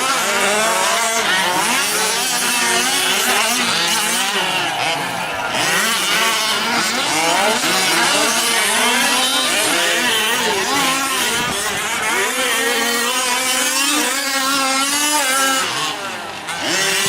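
Several 1/5-scale gas RC trucks' small two-stroke engines revving up and down together as they race around the track, their pitches rising and falling and overlapping.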